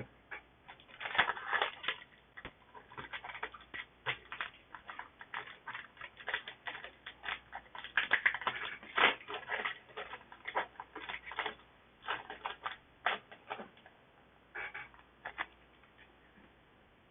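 Crinkling and crackling of a foil booster-pack wrapper being torn open, with cards being handled, in many short irregular clicks that thin out near the end.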